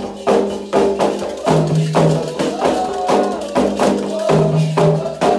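Candomblé ritual music: hand drums beating a steady rhythm of about four strokes a second, with a ringing percussion part and chanting voices.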